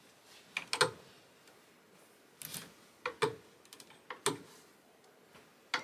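Clothes hangers clicking and knocking on a metal closet rail as garments are pushed along and rehung: a string of short, sharp clicks at irregular intervals.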